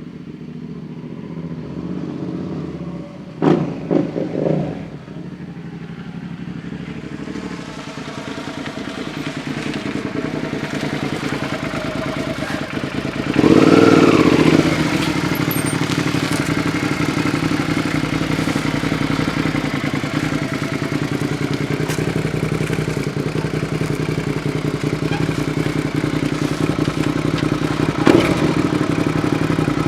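Suzuki SV650 K8's V-twin engine running through an Akrapovic aftermarket exhaust, growing louder over the first half, with a few sharp spikes about three to four seconds in. About halfway through there is one short rev that rises and falls, then the engine runs on steadily and louder.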